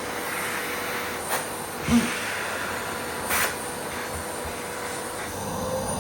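Miele vacuum cleaner running with a steady hum and hiss, broken by three short sharp clicks about a second and a half, two and three and a half seconds in.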